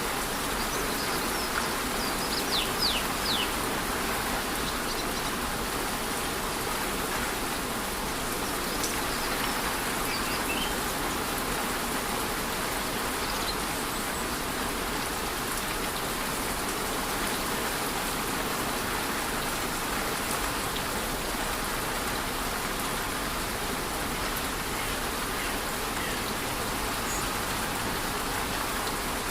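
Steady rush of a rainforest waterfall and light rain falling. A few brief high bird chirps come about two to three seconds in.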